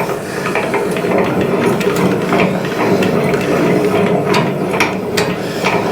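Front wheel clamp of a motorcycle lift table being wound in by its screw handle: a steady run of metal clicking and rattling, with a few sharper clicks in the second half as it tightens onto the wheel.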